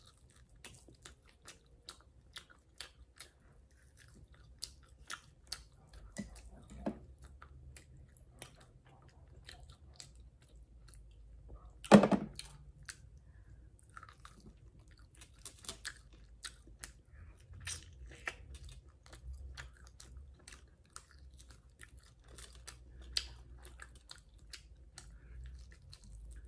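Chewing and biting on a cowboy steak, gnawing meat off the rib bone, with many short wet mouth clicks and crunches. One loud thump about halfway through.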